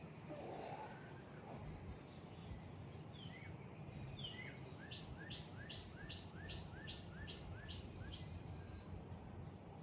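A songbird singing: a few scattered chirps, then a run of about ten quick repeated notes at about three a second, over a steady low background rumble.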